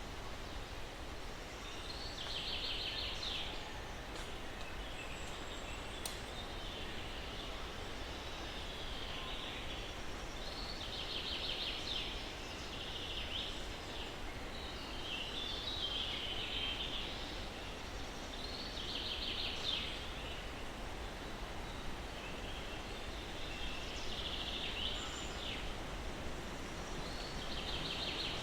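Steady soft breeze hiss through pines, with short bird calls between high and mid pitch repeating every few seconds.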